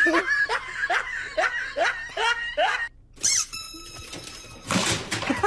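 Laughter: a quick run of short ha-ha pulses for about three seconds. It is followed by a brief steady tone and a short rushing burst near the end.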